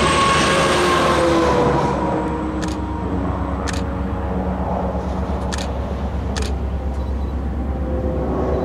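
Diesel locomotives of an approaching empty coal train, a steady low rumble with a few sharp ticks. A higher rushing noise eases off about two seconds in.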